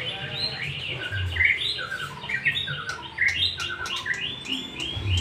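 Bird chirping in a quick run of short, repeated calls, over a low hum.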